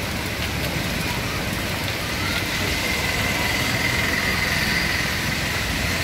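Steady rain on a flooded road, with motor vehicles passing close on the wet street and growing a little louder in the second half.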